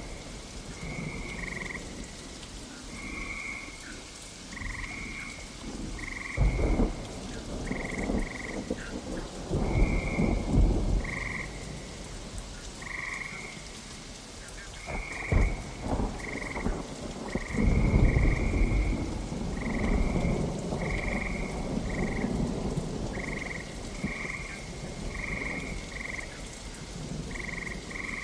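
Frogs croaking in a steady run of short calls over steady rain, while thunder rolls several times and gives one sharp crack about halfway through.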